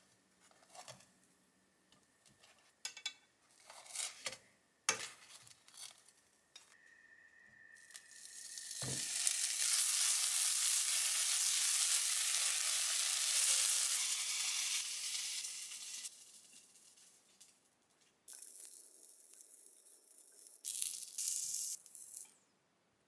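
Food sizzling in a hot pan. A few light knocks and clicks come first, then a thump about nine seconds in, after which a loud sizzle swells, holds for several seconds and dies away. A weaker, shorter sizzle follows near the end.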